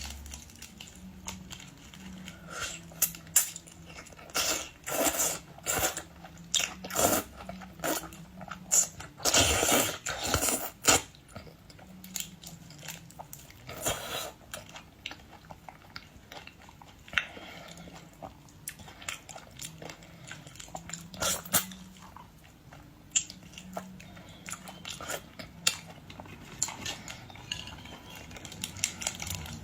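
Eating sounds from boiled shrimp: irregular crunches, crackles and chewing, busiest in the first dozen seconds and then more scattered.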